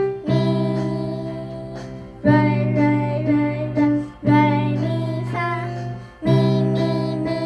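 Music: a voice singing a simple tune over guitar chords struck about every two seconds, each chord ringing out and fading before the next.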